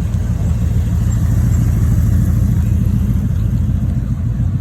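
A vehicle engine running at close range: a deep, steady rumble that swells a little about two seconds in, then eases.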